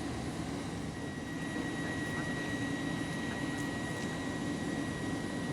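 A steady mechanical drone with a constant high-pitched whine running through it, without a break or any sudden sound.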